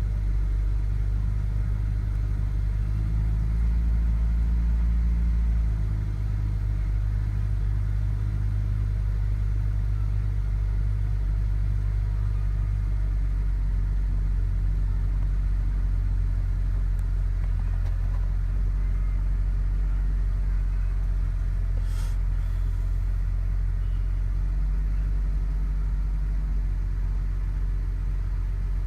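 BMW E60 535i's twin-turbo inline-six idling after a cold start with a steady low hum, a little louder for the first six seconds before settling. The idle is one the owner calls rough. A single short click about 22 seconds in.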